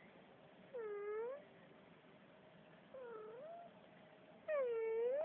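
Domestic cat meowing three times, about two seconds apart, the last call the loudest and the middle one the quietest; each meow dips in pitch and rises again at its end.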